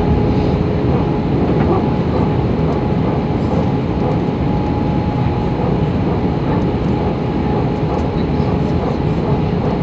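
Steady roar inside an Airbus A321 cabin in flight, from the engines and the air rushing past the fuselage, with a faint steady hum over it.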